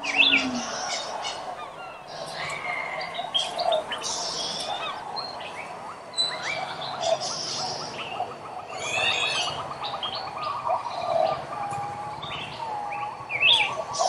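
A chorus of wild birds, several kinds overlapping in short chirps, whistles and rising calls, with a fast even trill in the middle.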